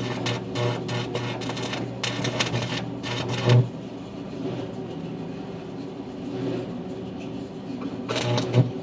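Electric arc welding: the arc crackles and spits irregularly, stops about three and a half seconds in, and strikes again near the end, over a steady low hum from the welding machine.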